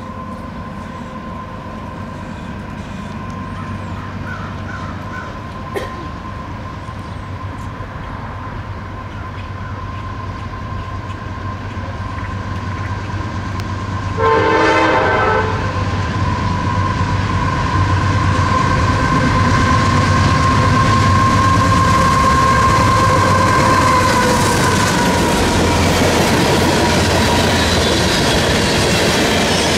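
Freight train led by a GE AC4400CW diesel-electric locomotive approaching with its horn sounding, growing louder, with a sudden loud blast about halfway in. The horn drops in pitch as the locomotive passes, then the freight cars rumble and clatter over the rails.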